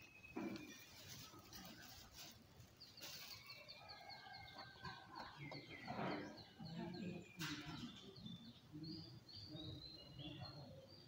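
Small birds chirping faintly in quick runs of high notes, twice, over soft knocks and clinks of offering bowls being handled.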